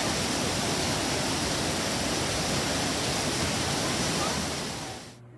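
Steady rush of water from a waterfall or river cascade. It fades out quickly near the end.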